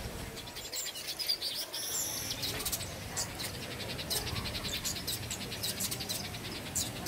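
Several small birds chirping and twittering, many short high calls overlapping, over a low steady background rumble.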